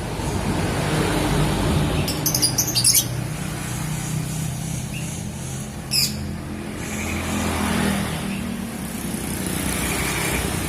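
Lovebird giving a quick series of shrill, sharp calls about two seconds in and one more sharp call near six seconds, over a steady low background rumble.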